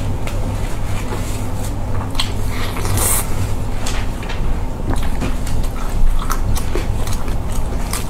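Close-miked eating sounds: biting into and chewing braised cola chicken wings, with short wet smacks and clicks of the mouth. A steady low hum runs underneath.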